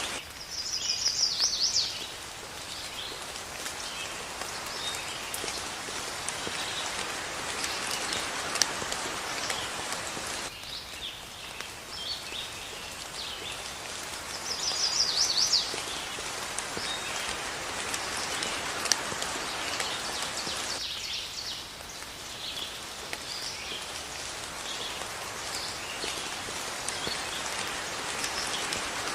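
Steady rain falling, with birds chirping over it. A loud, rapid bird trill comes near the start and again about halfway through. The rain hiss thins abruptly twice.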